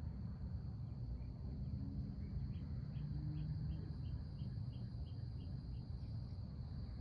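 Insects, crickets or the like, shrilling on one steady high note, while a bird calls a run of about ten short, evenly spaced notes, about three a second, through the middle. A steady low rumble lies underneath.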